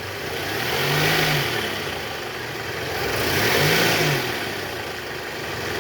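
Toyota Alphard ANH10's 2.4-litre four-cylinder engine revved up and back down twice, about a second in and again near four seconds. It is being checked for a rough growl blamed on a weak accessory belt tensioner; right after, the run is judged fine.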